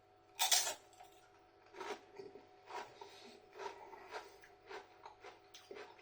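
A crunchy bite into a dipped harissa and red pepper tortilla chip about half a second in, followed by steady crunchy chewing at about two chews a second.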